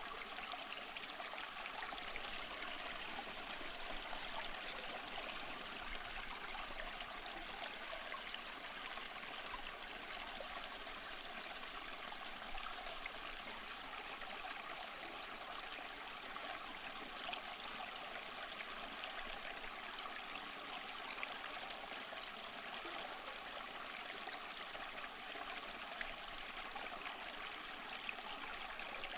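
Waterfall: a steady, unbroken rush of falling water, a bright splashing hiss with little deep rumble.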